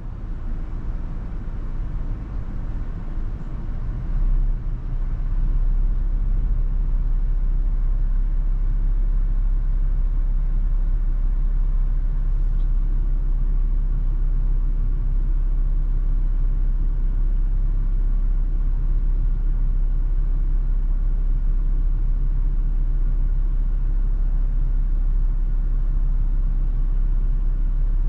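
Steady low rumble of a Toyota FJ Cruiser being driven in heavy wind: road and wind noise. Somewhat quieter and uneven for the first few seconds, then steady and louder.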